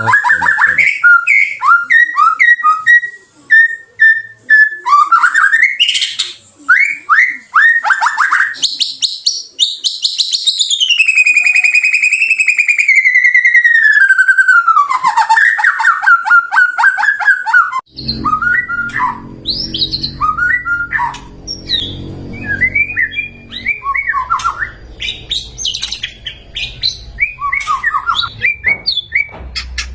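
White-rumped shama (murai batu) singing a run of varied whistles and quick chirps, with a long warbling phrase in the middle that slides down in pitch. After about 18 seconds a low background rumble comes in under shorter, choppier phrases.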